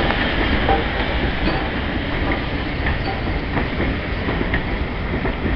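Railway passenger coaches rolling slowly past: a steady rumble of wheels on rail with occasional faint clicks.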